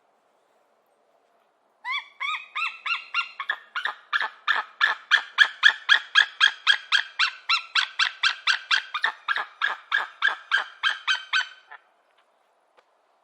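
A kite calling: a long series of rapid, evenly repeated whistling notes, about four a second, starting about two seconds in and stopping near the end.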